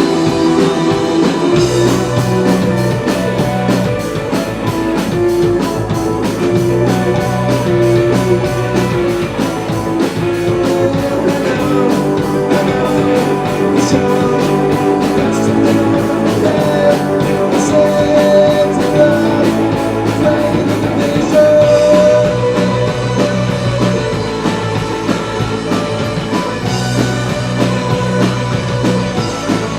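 Rock band playing live: electric guitar and bass over drums with a steady beat.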